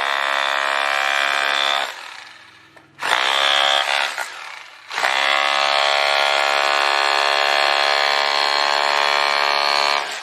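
Electric three-function rotary hammer (concrete drill) switched on three times: a run of about two seconds, a short burst around three seconds in, and a long run from about five seconds on. Each time it is released, its motor whine falls in pitch as it winds down.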